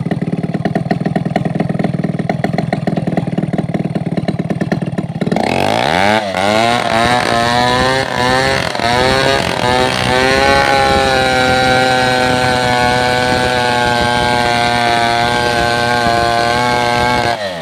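Two-stroke chainsaw engine idling, then revved up about five seconds in, wavering in pitch for a few seconds before holding a steady high-speed scream, and dropping back right at the end.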